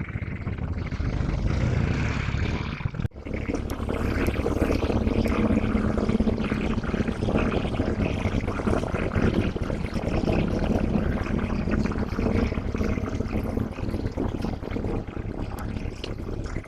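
Diesel locomotive engine running with a steady drone over a loud rumbling noise, briefly cutting out about three seconds in.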